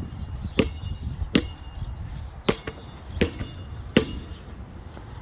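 Gusty wind rumbling on the microphone, with five sharp thumps at about walking pace, each with a brief ring.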